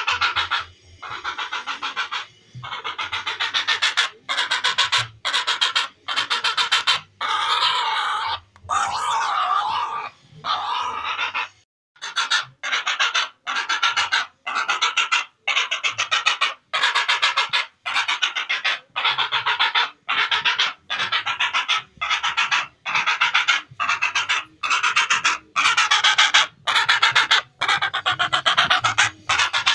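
Herons calling: harsh rattling calls, one after another about once a second, with short gaps between.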